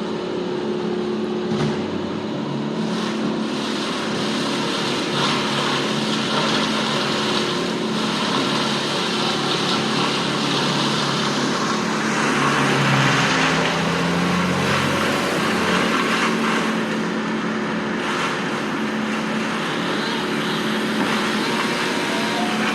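An engine running steadily, growing louder and rising and falling in pitch between about twelve and sixteen seconds in, then settling back to a steady run.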